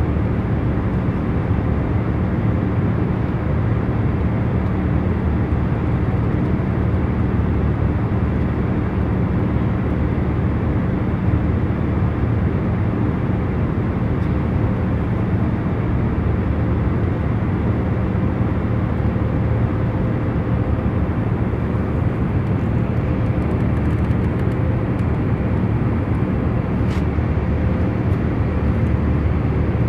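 Steady hum and rush of a jet airliner's cabin in cruising flight, with a few faint steady tones under the noise. A faint click sounds once near the end.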